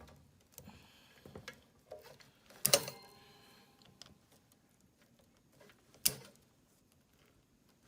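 Hand tools and parts clicking and knocking against the lid of a halogen convection oven as a cover is worked loose: scattered small clicks, a sharp clack with a brief ring a little under three seconds in, and another sharp click about six seconds in.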